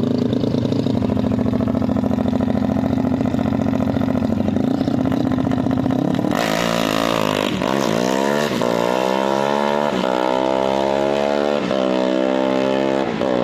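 Drag-racing motorcycle engine held at steady revs on the start line, then launching about six seconds in and accelerating hard, its pitch climbing and dropping at each of several quick upshifts.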